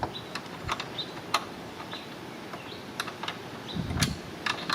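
Irregular light clicks and taps of hand tools working on an intake hose clamp under a car's hood, with a dull knock about four seconds in.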